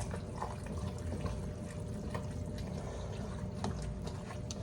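Wet, liquid sounds of a spoon stirring tomato sauce into goulash in a pot, with a few faint clicks.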